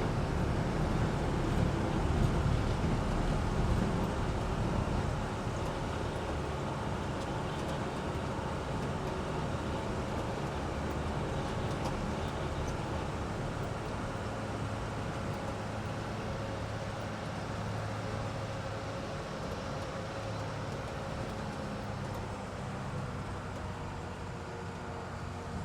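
Amphibious duck tour vehicle's engine running steadily under way, a little louder for the first few seconds and then settling to an even drone.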